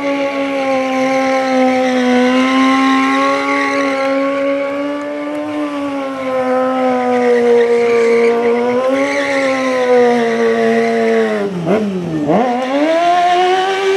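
Stunt motorcycle engine held at high revs, the pitch wavering as the throttle is worked. About twelve seconds in the revs drop sharply and swoop straight back up.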